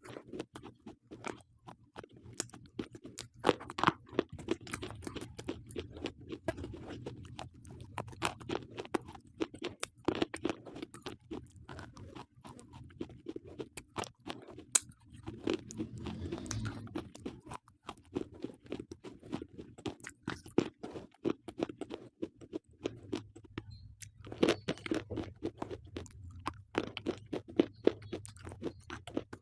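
Slate pencils being bitten and chewed close to the microphone: dense, irregular crunching with a couple of short pauses, over a faint steady low hum.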